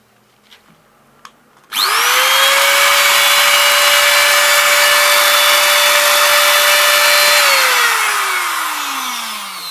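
Interskol UShM-125/900 angle grinder test-run with no disc, on new SKF bearings and brushes and an ungreased gearbox: a few small clicks, then it switches on about two seconds in with a quickly rising whine and runs at a steady high pitch. After about five and a half seconds it is switched off and winds down with a falling whine. It runs well, with no sparking.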